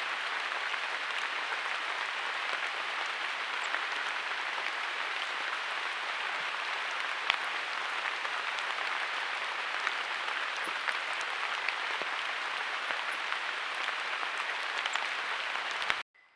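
Heavy rain falling steadily, a dense hiss with scattered sharp drop impacts; it cuts off abruptly near the end.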